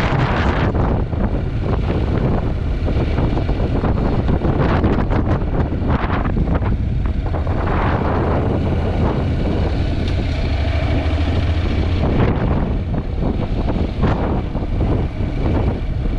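Heavy wind buffeting on the action camera's microphone while riding, over the steady low drone of a Honda NC750X's parallel-twin engine.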